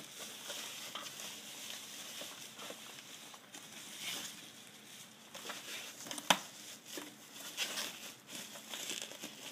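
Plastic packaging crinkling and rustling as it is handled, with scattered small clicks and one sharp click about six seconds in.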